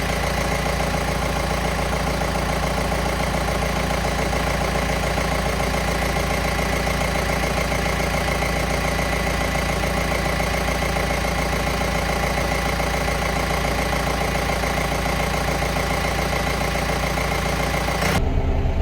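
John Deere 6420 tractor's diesel engine idling steadily, running again after its fuel lines, fuel pump and routing were redone and the injectors bled to cure a no-start. The sound cuts off abruptly near the end.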